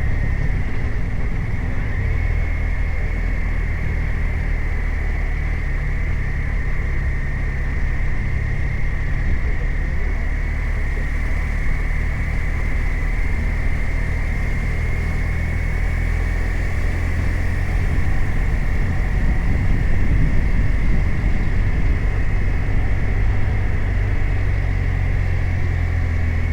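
BMW R 1250 RT's 1254 cc boxer twin running steadily under way, with a thin steady high whine above the engine note. It gets a little louder about two-thirds of the way through.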